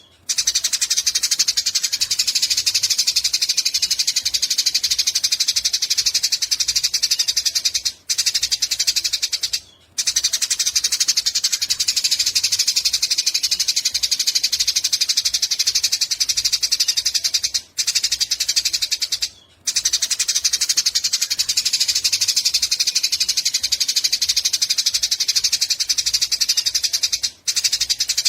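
Eurasian tree sparrow giving its long 'nyecret' song: a loud, very fast, buzzing chatter of high notes, held for several seconds at a time and broken by brief pauses about eight seconds in, around eighteen seconds and near the end.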